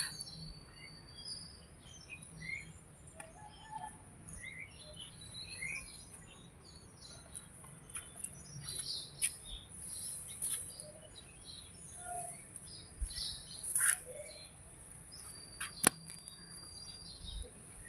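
Birds chirping: many short, high chirps scattered irregularly throughout, with a few sharp clicks in between.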